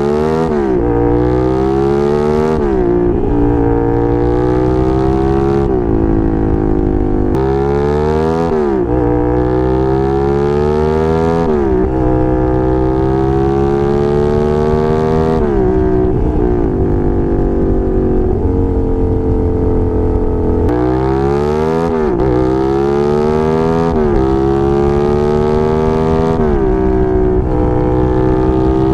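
Suzuki SV650S V-twin motorcycle engine under way, revving up and dropping in pitch at each gear change, about a dozen times, with some stretches of steady cruising. A rushing hiss comes and goes over the engine.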